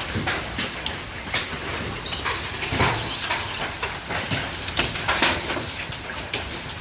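Hail pelting down: a dense, irregular clatter of sharp knocks from hailstones striking hard surfaces.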